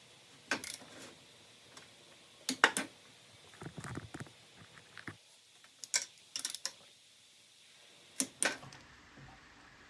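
Click-type torque wrench and socket working the cylinder head bolts of a Briggs and Stratton engine: scattered groups of short, sharp metallic clicks, the loudest a close double click about two and a half seconds in, as the wrench breaks over at its 18.5 foot-pound setting.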